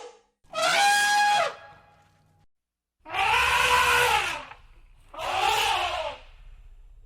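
Elephant trumpeting: three loud blasts, the first about half a second in, the next two each rising and then falling in pitch.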